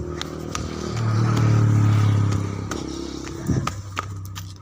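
A low engine hum that swells to its loudest about a second in, then slowly fades, like a motor vehicle passing by, with a few scattered clicks.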